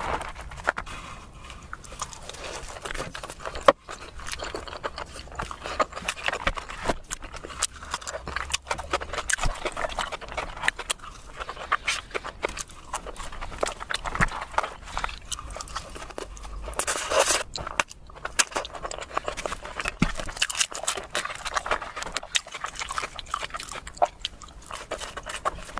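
Close-miked chewing and biting of a burger and fries: a continuous run of wet mouth smacks and crunchy clicks, with a sharp loud click about four seconds in.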